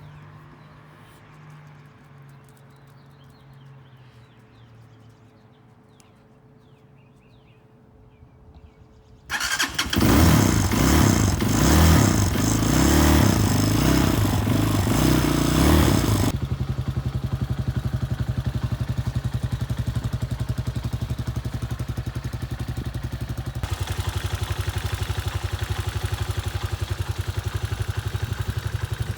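Hawk 250cc dirt bike's single-cylinder engine starting from cold about a third of the way in. It runs fast and loud for several seconds, then drops to a steady, evenly pulsing idle.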